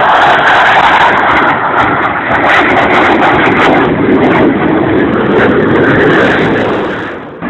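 Blue Angels F/A-18 jets passing overhead: a loud, rough jet roar that sinks in pitch as they go by and falls away near the end.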